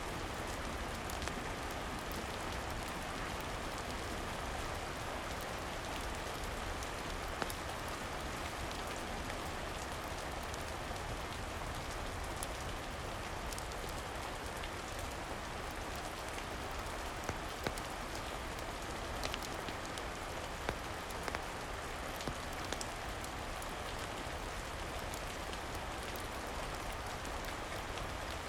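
Steady rain falling, an even hiss, with a few sharp clicks scattered through it.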